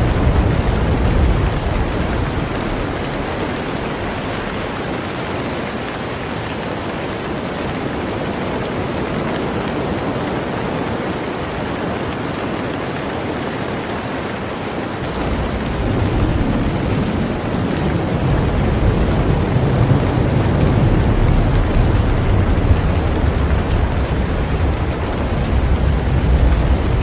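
Heavy rain falling on a boat, a dense steady hiss. A deep low rumble under it fades away in the first few seconds and comes back suddenly about halfway through.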